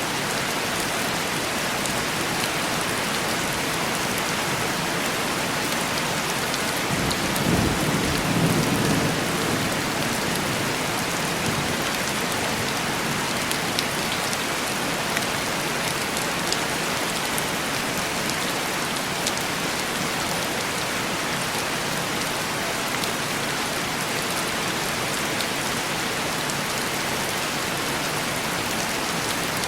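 Heavy rain falling steadily on a window. A low roll of distant thunder swells and fades about seven to twelve seconds in.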